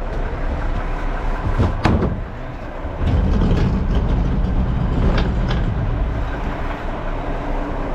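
Garbage truck's diesel engine running, rising to a louder, heavier rumble about three seconds in, with a knock before that and a couple of lighter knocks later.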